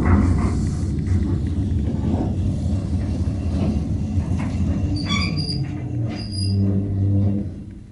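Early-1990s Express Lift Co baggage lift running with a loud low rumble and irregular thumping from badly worn bearings. Brief high-pitched squeaks come about five seconds in. Near the end a steady hum takes over, and the lift stops.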